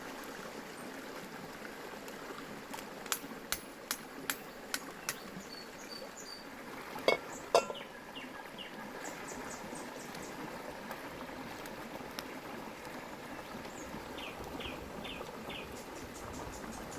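Outdoor ambience with birds chirping, a run of about six light clicks a few seconds in, and two sharp knocks about seven seconds in.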